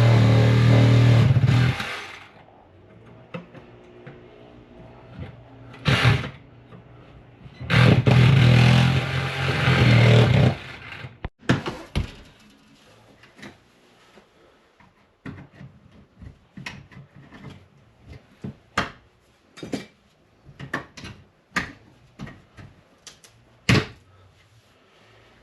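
A power tool cutting into drywall in two runs of about three seconds each with a short burst between them, followed by a long string of sharp clicks and knocks as pieces of the wall are worked loose.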